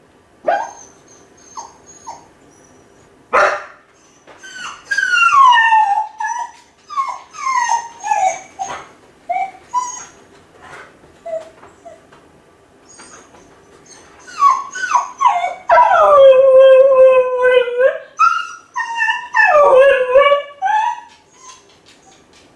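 Kai Ken dog left home alone, whining and howling from loneliness: a string of short high cries that slide down in pitch, then a long, steady howl after the middle and another howl near the end.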